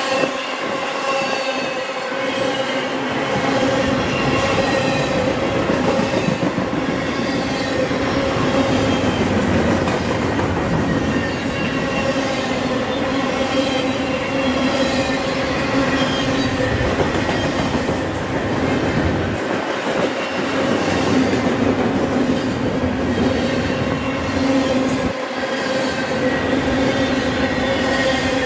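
Double-stack intermodal freight train rolling past, a steady rumble and clatter of its wheels on the rail with squealing tones held at several pitches over it.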